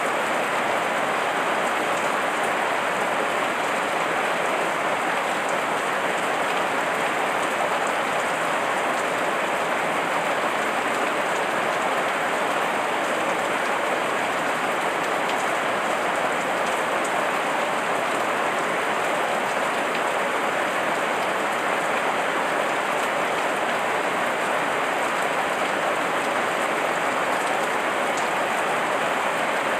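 Heavy rain falling steadily: a dense, even hiss of drops with no change in strength.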